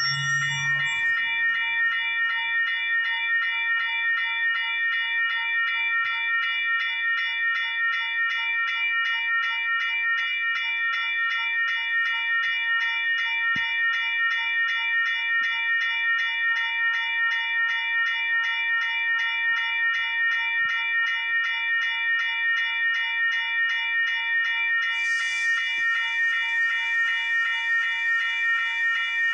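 Railroad grade crossing bell ringing steadily in a fast, even pulse while the crossing signals are active. A hiss comes in about twenty-five seconds in and holds to the end.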